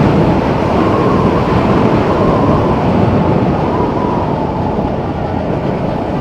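Motorcycle riding at speed: a steady engine note under heavy wind rush on the microphone, easing slightly in the second half.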